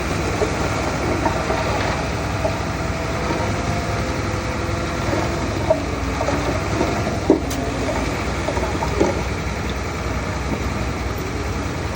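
Diesel engine of heavy earthmoving machinery running steadily, with wavering metallic squeaks and a few sharp clanks, the loudest about seven seconds in.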